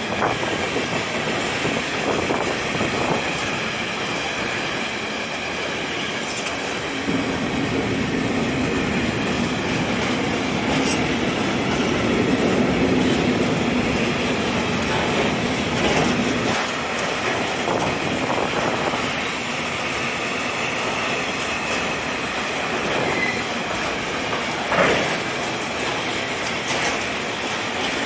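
Freight train of tank wagons rolling past close by: a steady rumble of steel wheels on rail, with a faint high wheel squeal and a single sharp knock near the end.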